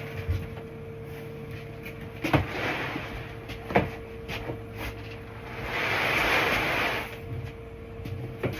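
Cattle feed being poured from one bucket into another: two knocks of the bucket being handled, each followed by a short rustle of feed, then a longer hiss of feed pouring for about a second and a half.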